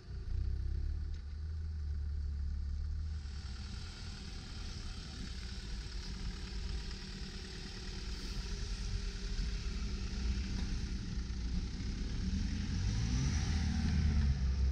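Land Rover Defender engine pulling at low speed through deep snow, the revs rising and falling. It grows louder as the truck comes up close near the end.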